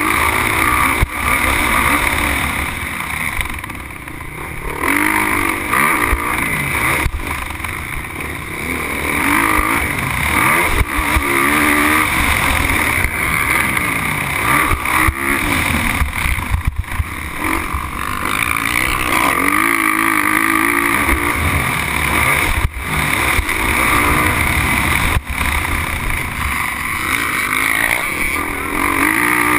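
Motocross bike engine heard on board, revving up hard and dropping back again and again as the rider accelerates, shifts and brakes around the dirt track. Occasional sharp knocks are mixed in.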